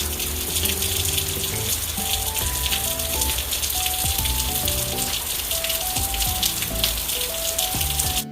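Background music, a slow melody of held notes, over a steady hiss of rain. The rain hiss cuts off suddenly at the very end while the music carries on.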